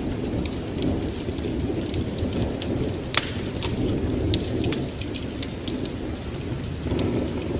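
Wood fire burning in a fireplace: a steady low rush of flame with many small irregular crackles and one louder pop about three seconds in.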